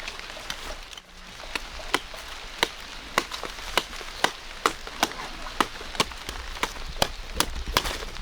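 Repeated sharp chopping strokes, evenly paced at about two a second, starting about a second and a half in.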